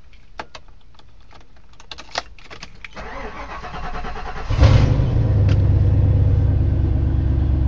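Vehicle engine cold-started with the manifold still cold: a few clicks, then the starter cranks for about a second and a half until the engine catches about four and a half seconds in and settles into a steady idle. It starts without the gas pedal being pumped.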